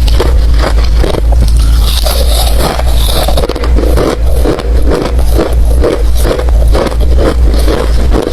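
Mouth chewing hard ice close to the microphone, steady crunches about four a second.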